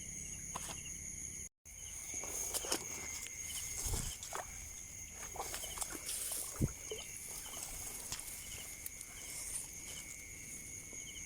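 Steady high chirring of night insects at two pitches, with short repeated chirps, under scattered rustles and knocks from handling the gear and walking through vegetation. The sound drops out for a moment about a second and a half in.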